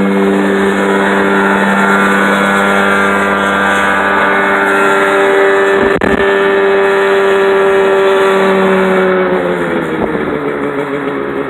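Helicopter engine running with a steady, tonal hum that drops in pitch and level about nine seconds in as it slows toward idle.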